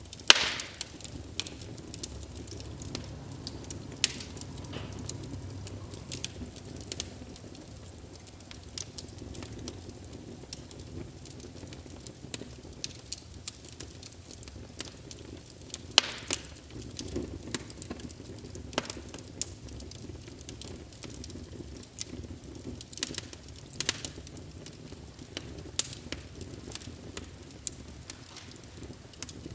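Wood fire in a fireplace crackling, with irregular sharp pops and snaps over a steady low hiss; the loudest pops come just after the start and about halfway through.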